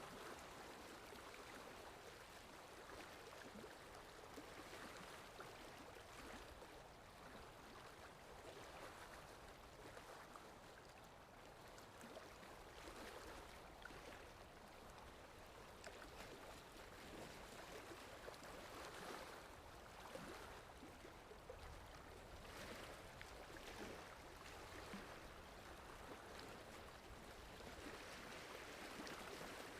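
Faint sea surf: water washing and fizzing in soft swells that rise and fall every few seconds.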